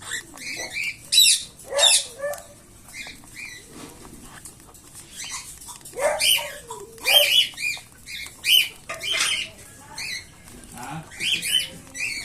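Young cockatiel chicks giving repeated short, raspy, high-pitched begging calls, the way chicks call for food at feeding time.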